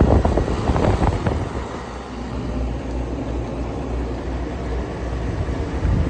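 Air conditioners running in cooling mode: a steady low hum from the compressors with fan noise over it. Some uneven knocking or rustling noise comes through in the first second or so.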